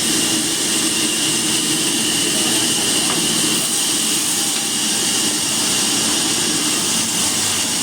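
A machine running steadily with a loud, even hiss and a low hum underneath.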